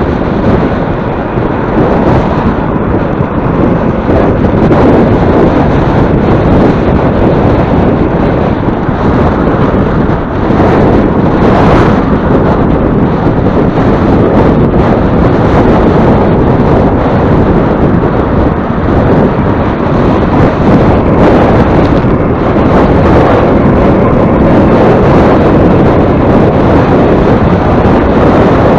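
Strong wind buffeting the microphone: a loud, steady rush of noise with small gusty swells throughout.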